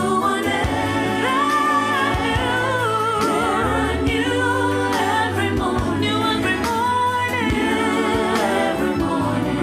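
Gospel music with several voices singing together over a steady low beat.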